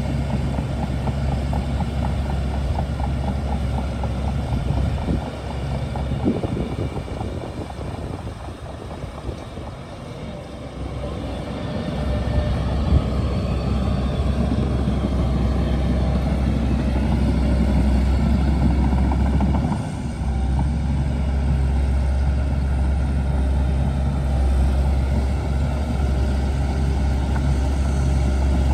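Shantui DH17C2 bulldozer's diesel engine running steadily. It falls off for several seconds about a third of the way in, then comes back up, with a brief dip later on.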